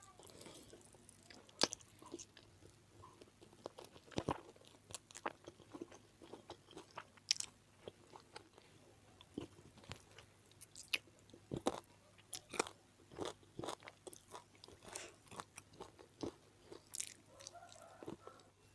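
Close-miked eating sounds: irregular chewing with wet mouth clicks and smacks as jengkol balado and fried chicken with rice are eaten.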